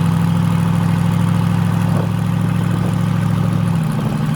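Twin-turbo 5.3 L V8 in a Silverado running steadily under way, with a low drone; about three-quarters of the way through, the engine note changes as the lower tone drops away. The mixture is reading in the 13s air-fuel ratio, which the owner calls a lot better after it had been running rich.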